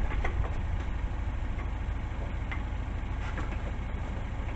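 A steady low rumble with a few faint knocks of metal, as a transmission is pried toward the engine with a jack handle.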